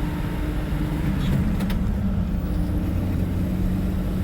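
Steady low engine and road drone heard from inside a moving 1960 Chevrolet, with a couple of faint clicks about a second and a half in.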